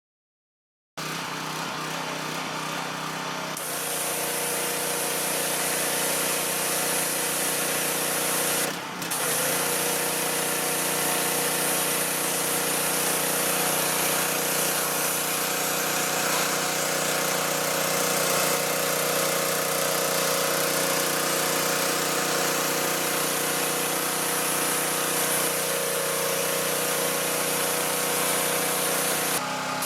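A 7 hp petrol pressure washer engine (EvoPower EPW3100-2) runs steadily, starting abruptly about a second in. A few seconds later a high hiss of spraying water joins as the washer comes under load. There is a brief dip in the engine note a little before halfway.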